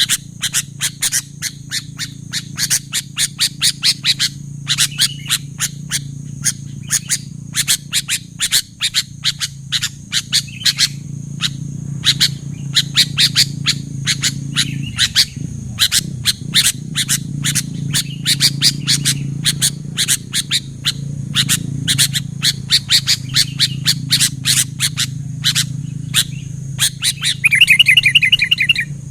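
Sooty-headed bulbul (kutilang) calling: a long run of short, sharp chattering notes, about four a second, ending in a louder warbled phrase near the end. A steady low hum runs underneath.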